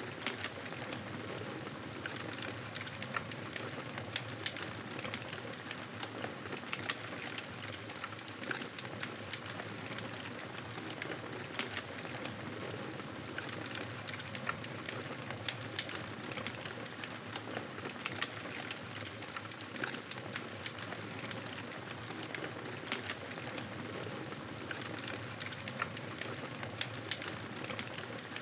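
Wood campfire crackling: a steady hiss with frequent sharp snaps of burning wood.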